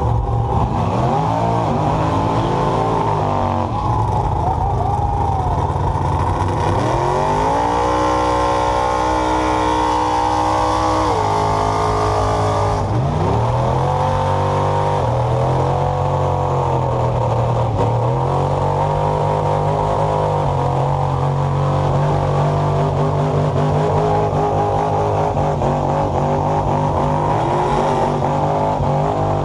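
Truck-pull truck's engine revving hard under load. Its pitch rises and falls a few times, climbs to a long high run, drops sharply about thirteen seconds in, then runs steady at a lower pitch.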